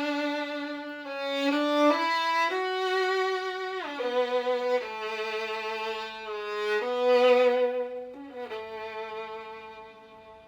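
Solo violin playing a slow, singing melody one note at a time, with vibrato and slides between some notes; the last note fades away near the end.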